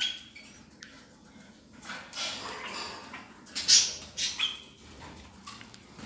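A cockatiel's beak crunching and gnawing kernels off a corn cob: irregular short crunches, the loudest a little under four seconds in.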